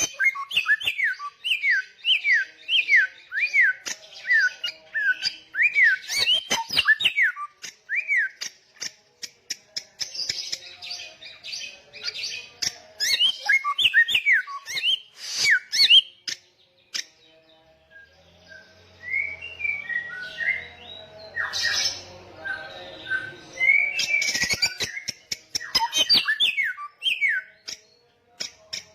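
A samyong cage songbird singing loudly and persistently. It opens with a fast run of repeated falling whistled notes, about two a second, then shifts to varied chattering and whistled phrases, with a short lull a little past the middle.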